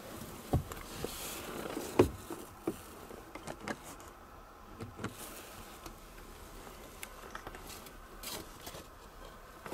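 Light knocks and clicks of car interior trim being handled in the rear seat, scattered irregularly with soft rustling between; the loudest knock comes about two seconds in.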